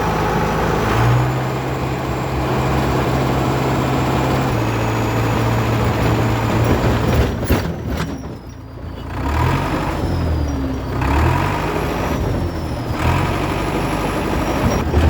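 International Harvester TD8E bulldozer's DT-239 diesel engine running as the dozer travels. The engine note holds steady at first, dips briefly about halfway through, then rises and falls repeatedly.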